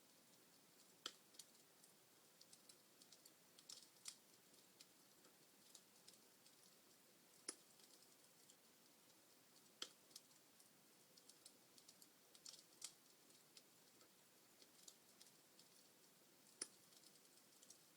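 Log fire in a fireplace crackling faintly: irregular sharp pops and snaps over a soft hiss, with the strongest pops about a second in, around the middle and near the end.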